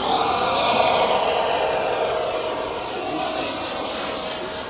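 Electric ducted fan of a radio-controlled FMS BAE Hawk model jet making a low pass: a loud high whine that rises in pitch over the first second, then holds steady as it slowly fades.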